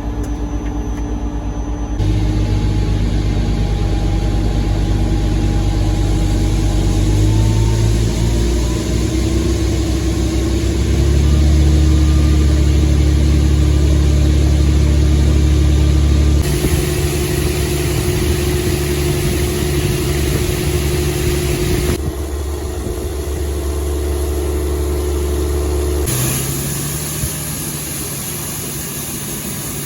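Tractor engine heard from the cab, running steadily under load while driving the grain cart's unloading auger. The engine note rises about eight seconds in, and the sound changes abruptly a few times.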